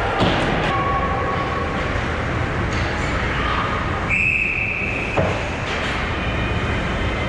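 Ice hockey game on a rink: a steady rumble of skating with scattered knocks of sticks and puck. Midway a referee's whistle sounds as one steady blast of about a second, and a sharp knock follows.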